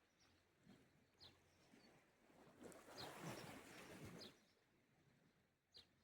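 Faint sea waves washing on the shore, one wash swelling in the middle and dying away, with a few short, high bird chirps.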